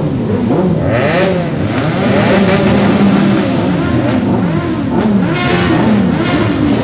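Several motorcycle engines revving together, their pitches rising and falling over one another as a group of bikes moves off.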